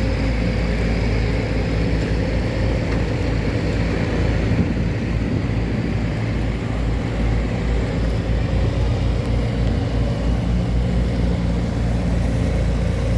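Tugboat's diesel engine running steadily, an even low drone with no change in speed.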